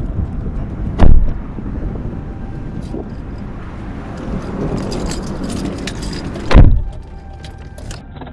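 Two car doors slamming shut, about a second in and again near the end, over gusty wind on the microphone, with light clicking and rattling between the slams.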